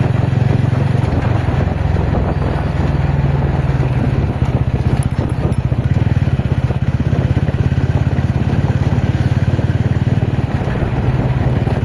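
TVS Ronin single-cylinder motorcycle engine running at a steady speed while riding off-road, with rough, noisy road and wind sound over it.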